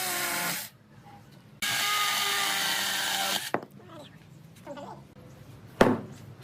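Power drill running in two bursts of about two seconds each, a motor whine over a hiss, probably working wood. A click follows, and near the end there is a single sharp knock.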